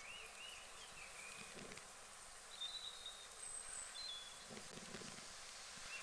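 Faint outdoor ambience: birds giving a few short, high chirps over a steady hiss, with a couple of soft low thuds.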